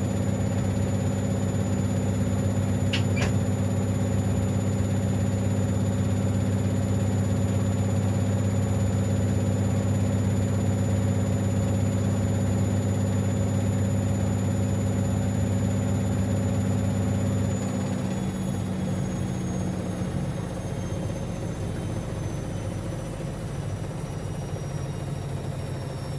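Siemens Extraklasse XLs 140 A washing machine spinning at a steady speed, with a steady motor hum and a high whine. About 18 seconds in, the drive drops off and the whine slowly falls in pitch as the drum winds down.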